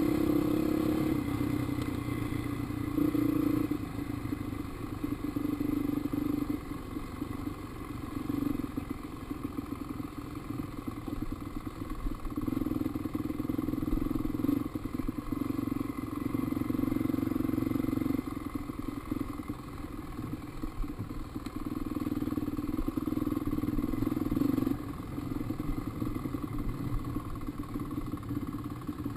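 Dirt bike engine running while being ridden, growing louder and easing off in stretches of a few seconds as the throttle opens and closes.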